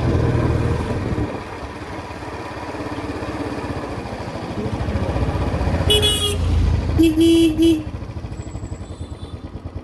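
Royal Enfield Classic 350's single-cylinder engine running on the road. A vehicle horn sounds briefly about six seconds in and again in a short run of beeps about a second later. After that the engine drops to a slow, even thump, as at idle.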